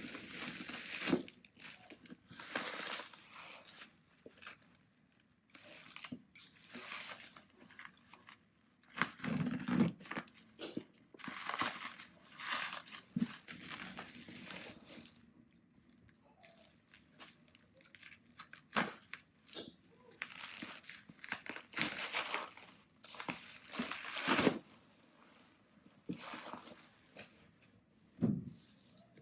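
Packaging being opened and handled: irregular bursts of crinkling, rustling and tearing of wrapping, with short pauses and a few light knocks.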